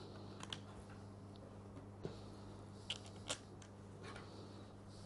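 Faint, scattered clicks and light taps of small parts being handled during reassembly of a GSH 5 demolition hammer, over a steady low electrical hum.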